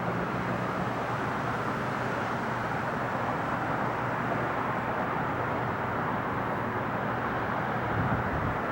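Steady distant engine noise, an even rumble with no distinct events.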